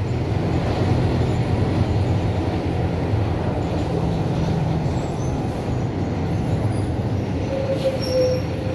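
Diesel engine of a Mercedes-Benz OF-1721 BlueTec 5 bus running steadily with a low, even hum. A thin higher whine joins it near the end.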